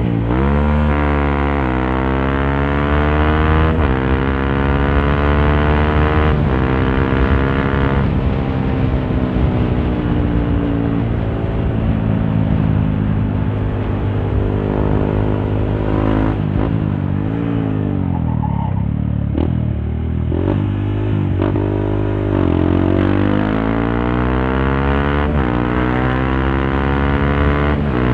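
Honda CRF150L's single-cylinder engine through an aftermarket Norifumi Torc exhaust, accelerating up through the gears: the pitch climbs and drops back at each shift, about three times in the first seven seconds. It holds steady for a while, then the pitch falls as the throttle comes off, and it climbs again through the gears near the end, with wind rumble throughout.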